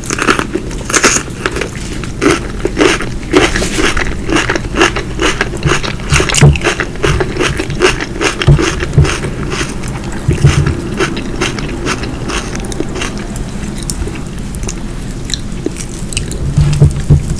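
Close-miked eating: a person biting and chewing food, with many crisp crunches and wet clicks in an irregular rhythm and a few short low thumps.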